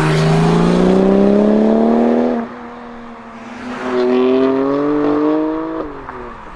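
Porsche 997 Turbo's twin-turbo flat-six through a Soul competition exhaust, pulling hard twice with its pitch climbing. Each pull ends in a sudden drop in level as the throttle is lifted.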